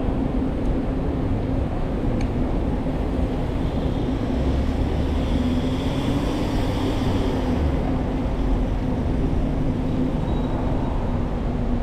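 Steady rumble and hiss of street traffic and wind heard from a moving bicycle, with a brighter hiss swelling about four seconds in and fading away a few seconds later.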